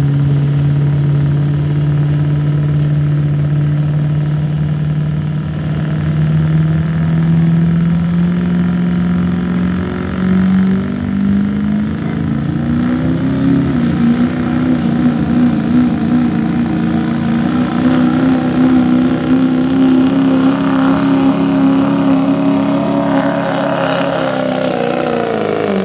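Diesel 4x4 pickup pulling a sled under full throttle. The engine note climbs steadily for the first dozen or so seconds while a high whistle rises with it, then holds at high revs. Right at the end the throttle is let off and the engine falls away.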